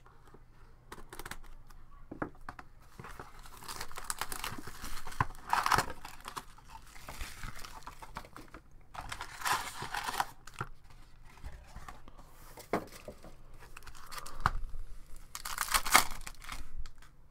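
Crinkly plastic wrapping on hockey card packaging being torn and crumpled in three main bursts, with a few sharp clicks between them.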